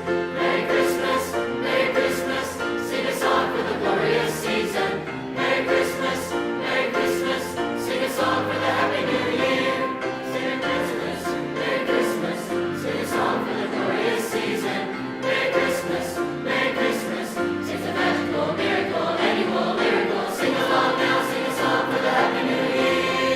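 High school choir singing a holiday song, many voices together on held chords, carrying on without a break.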